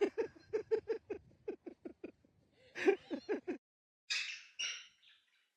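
A rapid run of short laugh-like calls, about six a second, then a second shorter run. Two harsh hissy bursts follow near the end.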